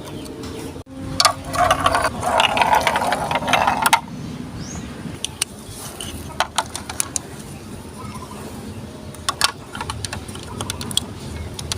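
Marbles rolling and clattering down a plastic Lego Duplo block track: scattered sharp clicks throughout, with a dense, continuous rattle from about one to four seconds in.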